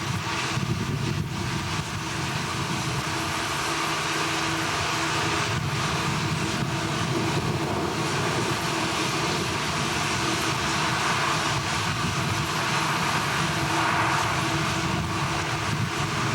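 Steady machinery noise, like a running engine or industrial machine, with a constant low hum under a dense roar.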